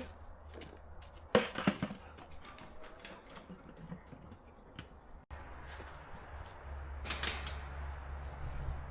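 A quick cluster of sharp clicks and knocks, then a brief rustling burst later on, over a steady low rumble.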